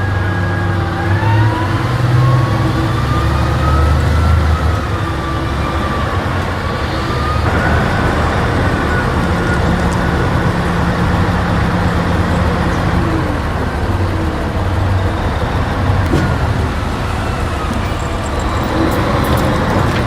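Heavy machine's diesel engine running steadily under load, with a whine that slowly rises and falls in pitch.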